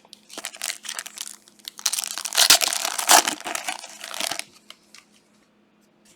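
Plastic wrapper of a Panini Prizm trading-card pack being torn open and crumpled. The crinkling is loudest two to three seconds in and stops about four and a half seconds in.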